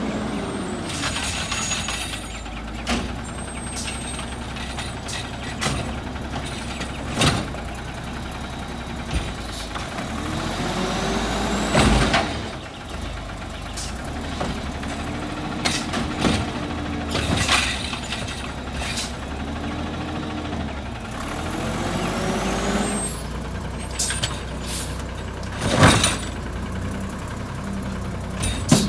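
Garbage truck working a recycling route: the engine runs steadily while the hydraulics whine up and down in pitch over and over, with several loud bangs, the strongest about 12 and 26 seconds in.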